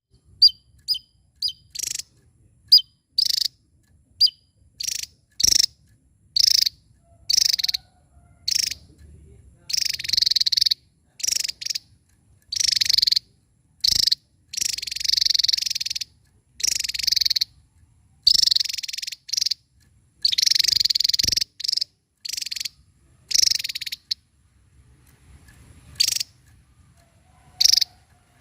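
Javan tesia singing: a string of short, high, whistled notes alternating with longer buzzy trills, each phrase separated by a short pause.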